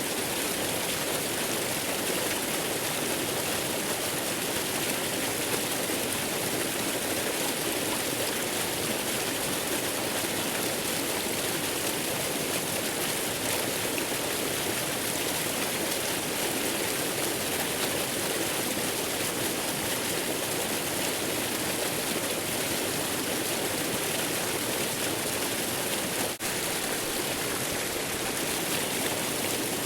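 Steady, even rush of a waterfall, a dense hiss of falling water with no change in pitch or strength, apart from a momentary dropout near the end.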